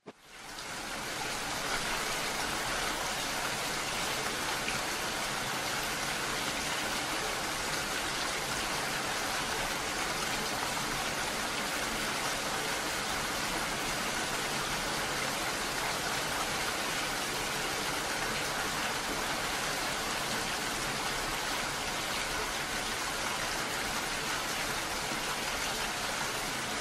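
Heavy rain falling, a steady even hiss that fades in over the first second or two.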